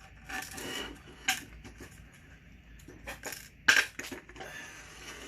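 Small metal parts being handled on a workbench: scattered clinks and rustling, with a sharp metallic click about three and a half seconds in.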